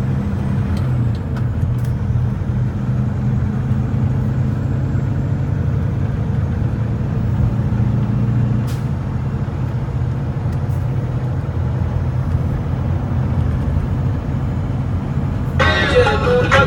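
Semi-truck engine running steadily at driving speed with road noise, a low even drone. Music with singing comes in near the end.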